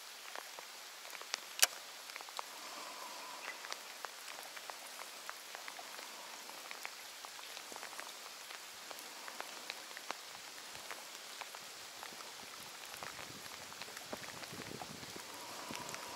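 Steady rain falling on open water, with many small ticks of drops landing close by and one sharp click about a second and a half in.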